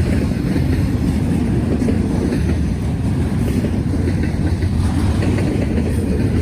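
Norfolk Southern freight train rolling steadily past at close range, a continuous low rumble of wheels on rail, with wind buffeting the microphone.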